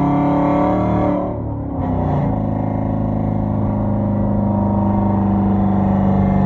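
Straight-piped Hyundai Genesis 5.0 V8 exhaust with Flowmaster Super 10 mufflers and no catalytic converters, droning loudly under way. About a second in the pitch drops and the sound dips briefly, then it settles into a steady, lower drone.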